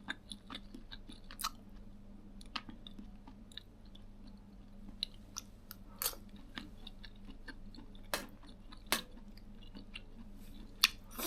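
Scattered light clicks and small knocks of a spoon on a bowl and pot during a meal of rice and boiled greens, with some chewing, over a steady low hum.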